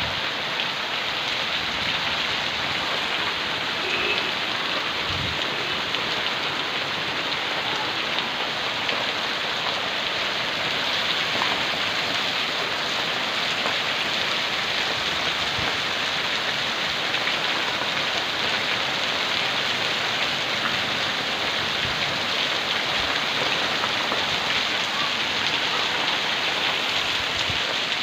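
Heavy rain pouring down steadily, an even dense hiss of drops striking surfaces.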